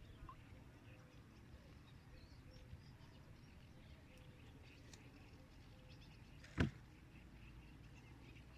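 Quiet marsh ambience with faint scattered bird chirps, broken by a single sharp knock about two-thirds of the way through.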